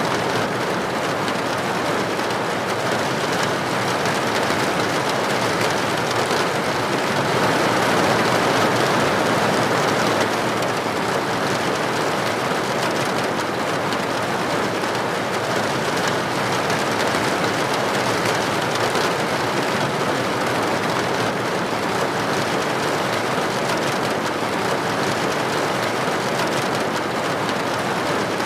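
Steady rain falling, an even hiss of drops with no distinct individual hits, swelling slightly about eight seconds in.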